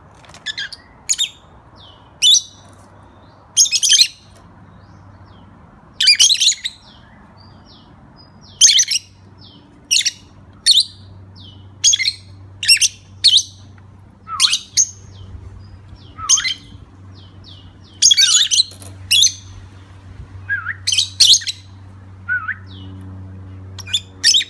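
Pet birds calling: short, loud, high-pitched squawks and chirps, roughly one a second, over a steady low hum.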